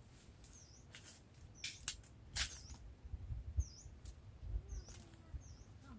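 A bird repeating a short, high, dipping chirp every second or so, over a few sharp rustles and snaps from hands tying stemmed bunches of young green mangoes with string.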